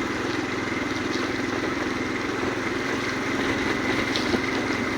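Motorcycle engine running steadily during a ride, under a constant hiss of wind and road noise.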